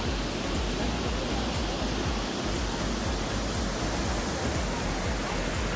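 Waterfall: a steady, dense rush of falling water that stays at one level.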